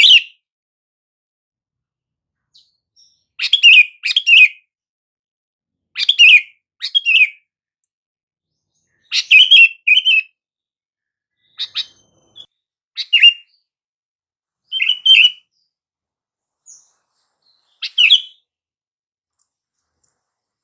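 Sooty-headed bulbul (kutilang) calling: about eight short phrases of a few quick notes each, repeated every two to three seconds with silence between them.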